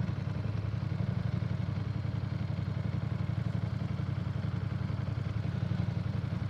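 Ducati Streetfighter V4 S's V4 engine idling steadily at a standstill, a low, even, rapid pulse.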